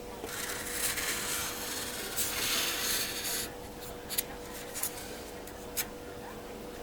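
Hand work rubbing and scraping across a surface for about three and a half seconds, heaviest in the middle, then three light sharp clicks.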